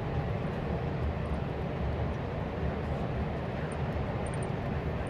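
Steady low rumble and rush of a Thalys high-speed train running, heard from inside a passenger coach.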